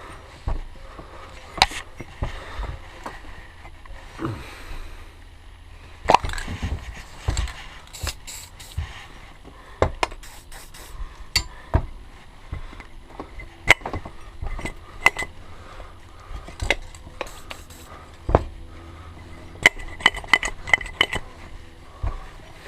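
Irregular metallic clinks, knocks and scrapes of hand tools and small steel parts being worked loose from a gas scooter's rear wheel hub, over a steady low hum.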